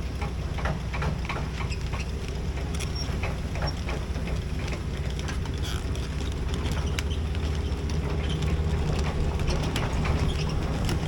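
A large excavator's diesel engine running steadily, with frequent short clicks and knocks over it as the machine digs.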